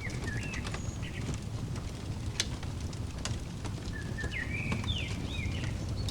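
Fireplace fire crackling, with sharp pops scattered over a low steady rumble. A songbird sings a short phrase of quick zigzag notes at the start and again about two-thirds of the way in.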